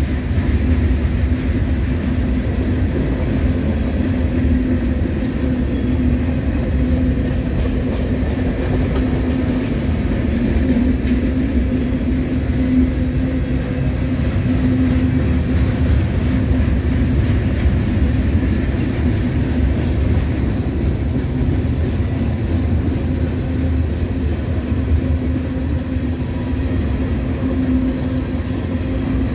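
Freight cars of a mixed manifest train rolling past at steady speed: a continuous rumble of steel wheels on the rails, with a steady low hum running through it.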